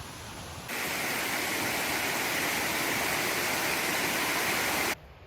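Steady rushing water of a mountain stream. It cuts in much louder just under a second in and drops away suddenly near the end.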